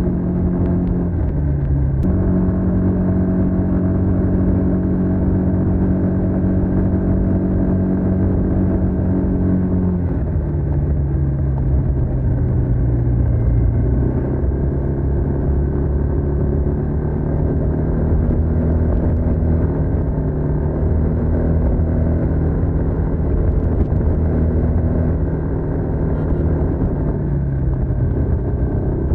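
Stock exhaust of a TVS NTorq 125 scooter's single-cylinder four-stroke engine, running steadily while riding. The note holds for several seconds, drops in pitch about ten seconds in, then rises and falls gently as the engine speed changes.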